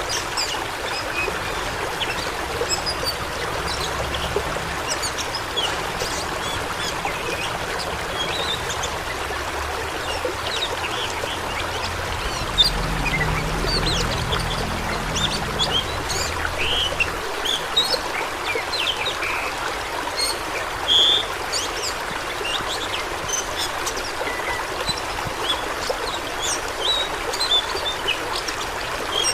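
Rushing water flowing and splashing steadily, like a fast stream or small waterfall, with many small high splashes and drips over the steady rush. A brief, brighter, higher sound stands out about two-thirds of the way through.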